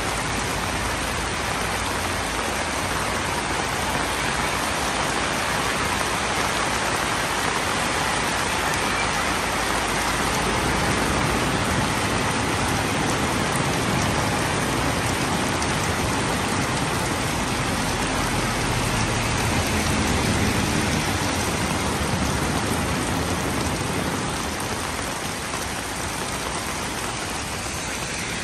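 Heavy rain falling steadily on a corrugated metal roof canopy and wet pavement, with water streaming off the roof edge: a dense, even hiss that eases slightly near the end.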